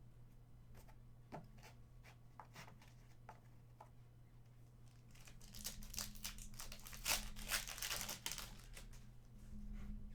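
A trading-card pack wrapper being torn open and crinkled, a dense crackling stretch in the second half, after a few faint clicks of cards being handled.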